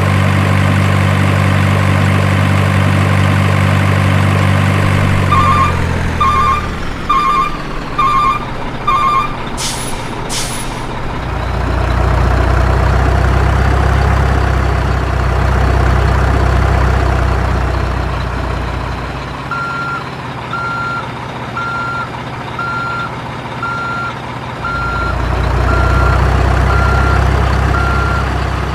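Heavy truck with its diesel engine running steadily, then a reversing alarm beeping about once a second, two short air hisses around ten seconds in, the engine rumbling on, and later a higher-pitched reversing beeper repeating about once a second.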